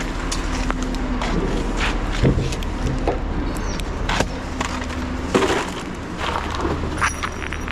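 Steady low hum of an idling lorry engine, with scattered knocks and clatters a few times over the seconds.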